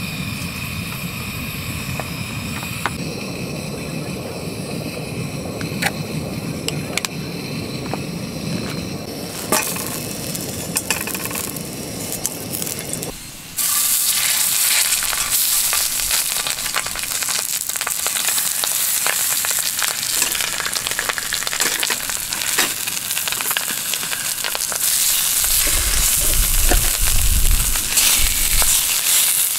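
A steady low rush from a camp stove's burner under a frying pan, then, about thirteen seconds in, a sudden switch to loud sizzling and crackling as salmon fillets and potato slices fry in hot oil in the pan, with tongs turning them.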